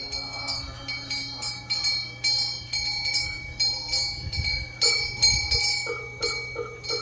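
Korean temple wind-bell (pungyeong) hanging from the eaves, its clapper swinging in the wind and striking the bell again and again at an irregular pace. Each strike leaves a clear, high tone ringing on.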